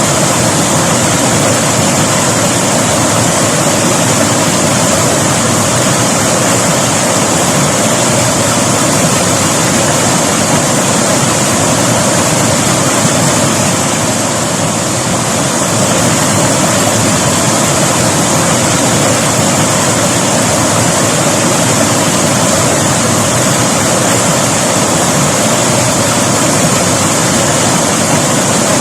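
River water rushing and splashing over rocks in a steady, loud, even flow.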